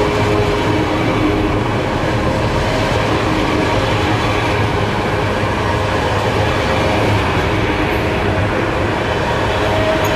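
Freight train rolling past at close range: a steady, loud rumble of wheels on rail, with some clickety-clack.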